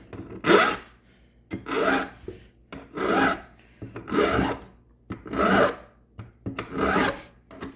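Nicholson Handy File rasping across the freshly cut end of a metal hose clamp, taking off a sharp edge: six even strokes about a second apart.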